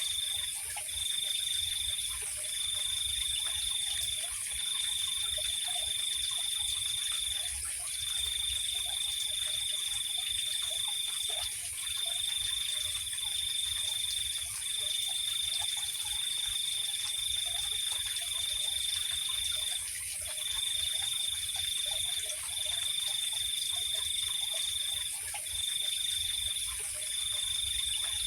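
Night insects: a cricket trilling in long runs broken by short pauses, over a continuous high-pitched insect drone.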